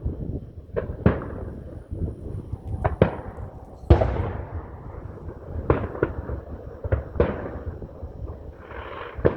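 Fireworks going off: an irregular run of sharp bangs and pops, each with a fading echo, the loudest about four seconds in.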